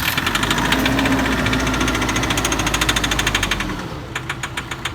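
2010 Nissan Euro 5 diesel engine just started and running with a rapid, regular heavy knock, louder at first and settling to a quieter idle about four seconds in. The knock is a failed big-end bearing, caused by faulty injectors over-fuelling and thinning the engine oil.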